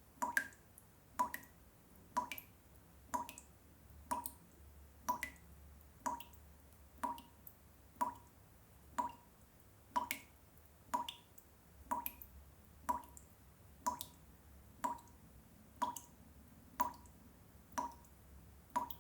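Water drops falling one at a time in a steady, even rhythm of about one drop a second, each a short plink with a brief ringing tone.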